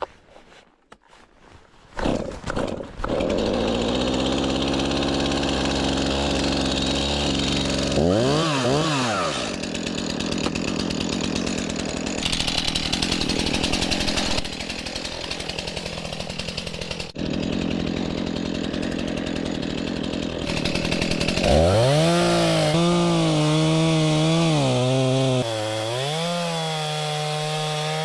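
Stihl chainsaw cutting into a rotten birch trunk to fell it. After a brief quiet moment it runs at high speed, the engine pitch dips and recovers about eight seconds in, and near the end it revs up again from low with a wavering pitch under load.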